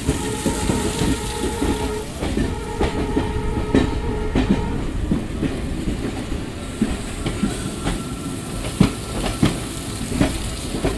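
Passenger train running on rails: a steady rumble with the clickety-clack of wheels over rail joints, and a steady high tone that sounds in two stretches.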